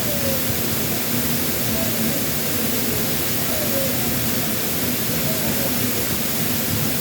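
Steady, constant rush of a waterfall running high after a typhoon.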